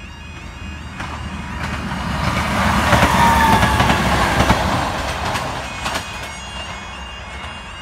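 Class 158 diesel multiple unit passing close by. The running noise swells to a peak about three to four seconds in and then fades as the train moves away, with a few sharp clicks from the wheels.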